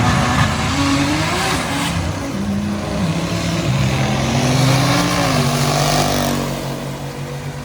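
Car engine at full throttle, climbing in pitch, dropping back and climbing again as it shifts through the gears, then fading away near the end: a car accelerating hard down the drag strip.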